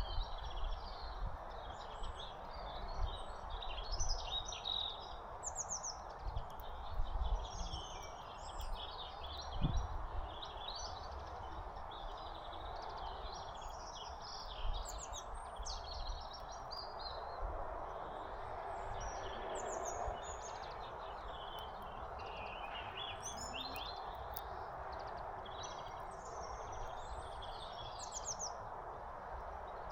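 Small songbirds at a feeder chirping, with many short, high calls coming throughout over a steady background hiss. A few low thumps come in the first third, the loudest about ten seconds in.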